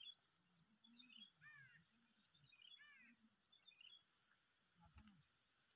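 Near silence: faint open-air background with a few distant bird calls, short curved calls repeating every second or two.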